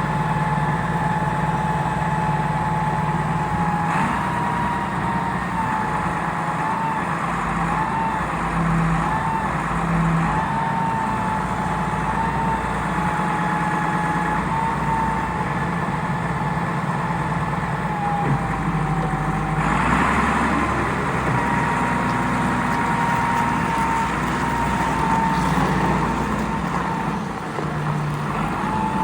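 Svetruck 1260-30 heavy forklift's diesel engine running steadily, with a high whine over the engine note that wavers a little in pitch. The engine picks up briefly about four seconds in and again near twenty seconds.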